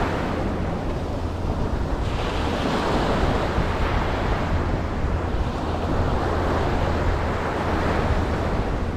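Ocean surf washing onto a beach: a continuous rushing wash under a steady low rumble, with a wave surging in about two seconds in and another building near the end.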